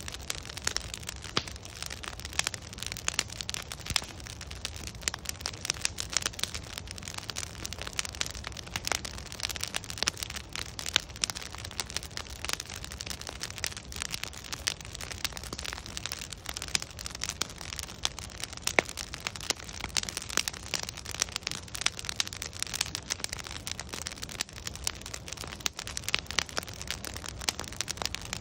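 Wood bonfire burning with constant irregular crackling and popping of logs over a low rumble of the flames.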